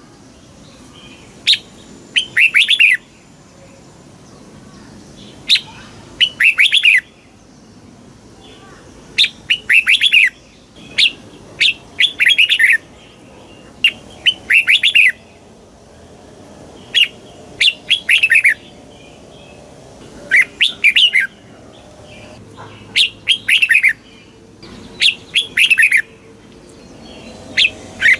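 Red-whiskered bulbul singing: short, bright warbled phrases of quick notes, each about a second long and repeated every two to three seconds.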